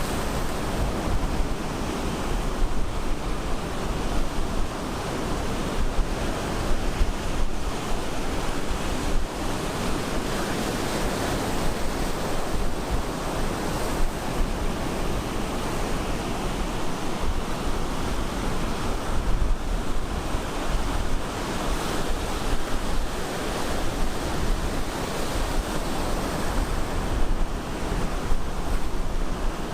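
Ocean surf breaking on a beach: a continuous wash of waves with a deep low rumble underneath, swelling a little now and then.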